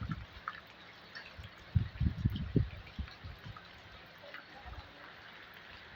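Rain falling steadily as an even hiss with scattered drips, and a few low bumps about two seconds in.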